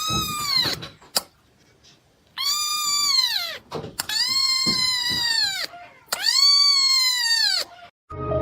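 Cat meowing loudly: four long, drawn-out meows, each rising and then falling in pitch.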